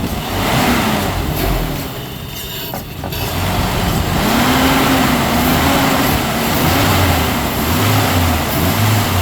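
2002 Ford Ranger's 2.3-litre 16-valve four-cylinder engine being revved up and down several times, its pitch rising and falling with each rev. A bad fuel pump means it is kept running on fluid sprayed into the intake.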